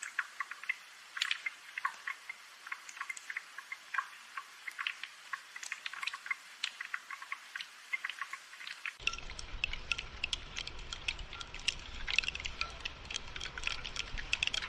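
Gentle rain falling as a dense, irregular patter of drops, mixed with light hollow knocks of bamboo wind chimes. A low rumble joins about nine seconds in.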